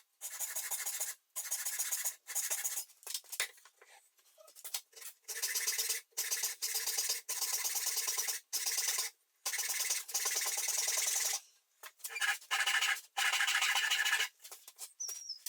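Japanese hand saw cutting wood, a steady run of rasping saw strokes with short breaks, fading to a few light scrapes near the end.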